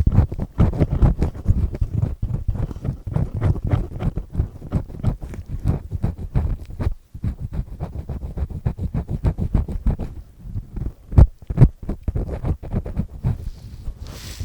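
Close-up scraping of an earpick with a triple-disc tip, a dense run of rough, grinding scratchy strokes right at the microphone. There is a short pause about seven seconds in, and two louder knocks a little after eleven seconds.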